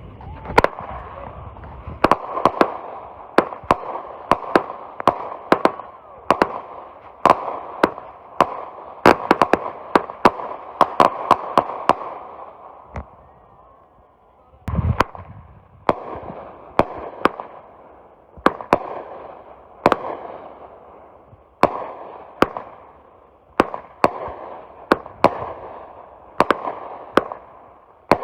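Consumer fireworks going off in a rapid string: sharp reports every half second to a second, with crackling between them. There is a short lull about halfway, then a low thump, and the reports pick up again.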